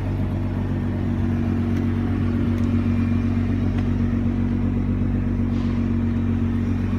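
Nissan GT-R engine idling steadily, a low, even rumble with no revving.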